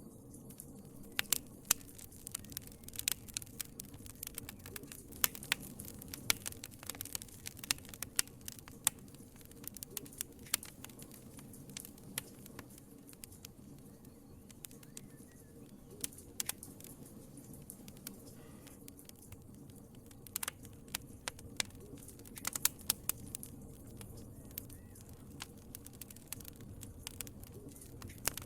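Wood fire crackling in a fireplace: irregular sharp pops and snaps, bunched more thickly in places, over a low steady rush of flame.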